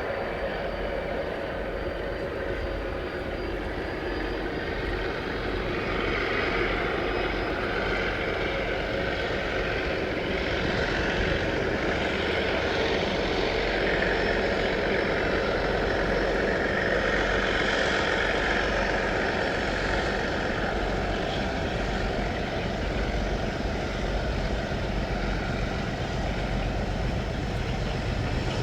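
Diesel locomotive running steadily at work with a train, swelling a little louder in the middle and easing back towards the end.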